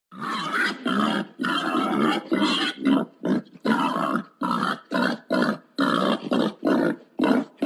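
Pig grunting in a rapid run of short, rough grunts, about two or three a second.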